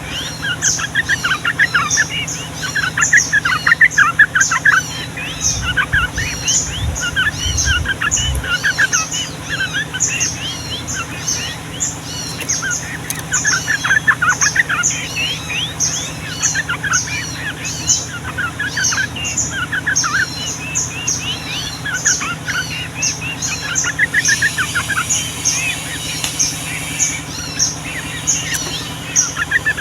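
Yellow-vented bulbuls singing without pause, in a dense stream of quick chattering and bubbling notes that overlap one another, over a faint steady low hum.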